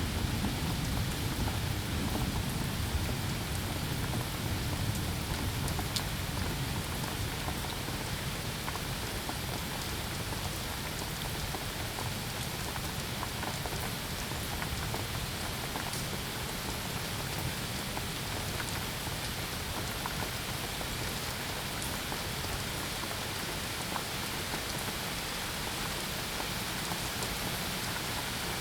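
Steady rain falling, with scattered distinct drops ticking on a surface; a low rumble at the start eases off in the first few seconds.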